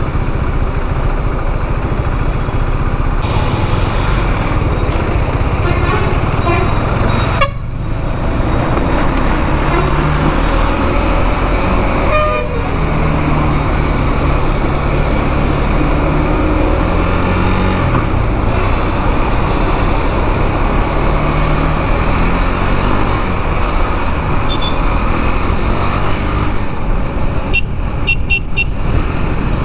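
KTM Duke 390's single-cylinder engine running under way in traffic, with heavy wind and road noise. Vehicle horns toot briefly about twelve seconds in and again as a few quick beeps near the end.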